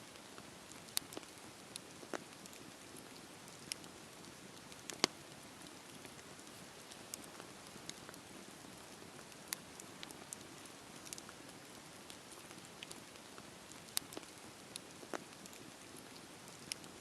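Campfire wood fire crackling: a soft steady hiss of burning with irregular sharp pops and snaps, a few louder ones standing out.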